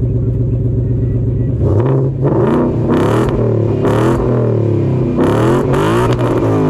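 Ford Mustang GT's V8 idling steadily through its exhaust, then revved repeatedly from about a second and a half in: several quick rises and falls in pitch.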